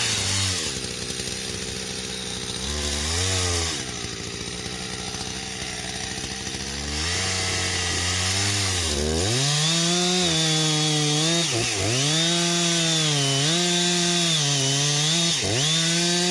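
Two-stroke chainsaw idling, revved briefly, then held at high revs from about nine seconds in, the pitch sagging and recovering several times as if it is cutting into wood.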